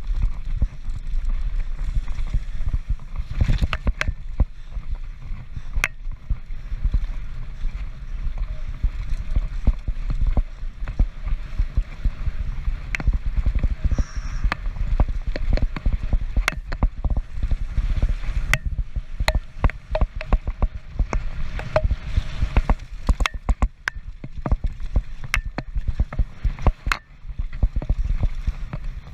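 A Transition Patrol mountain bike racing down a rough trail, heard through an on-board GoPro: a steady wind rumble on the microphone with frequent sharp clacks and rattles from the bike hitting rocks and bumps.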